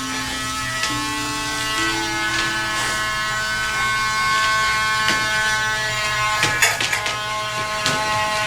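Small electric dog-grooming tool motor buzzing steadily, with a few light clicks in the second half.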